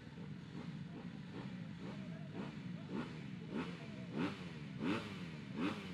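250cc motocross bike engines: a steady running drone with a run of quick, evenly repeated throttle blips, each a short rising rev, about one and a half a second, getting louder in the second half.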